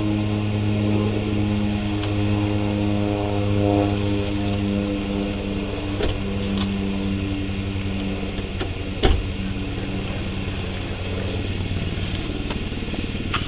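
2013 Dodge Dart's 1.4-litre turbocharged four-cylinder, fitted with a K&N aftermarket intake, idling steadily, with a slight lift in pitch around four seconds in. A single sharp knock sounds about nine seconds in.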